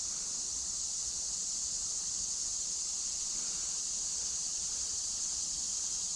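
Steady high-pitched chorus of insects trilling in the woods, unbroken throughout.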